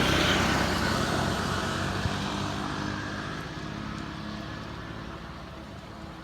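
A motor vehicle passing by, loudest at the start and then fading away as it moves off.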